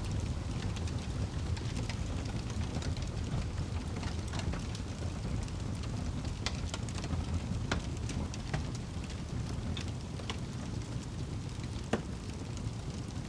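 Wood fire burning in a fireplace: a steady low rumble of flames with frequent small crackles and pops, one sharper pop about twelve seconds in.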